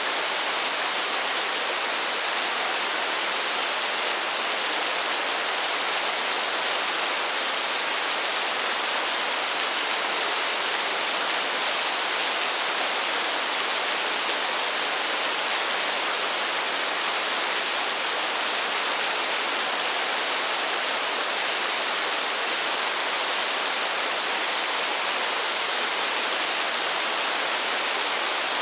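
Steady rain falling, an even hiss of water with no single drops standing out and no change in level.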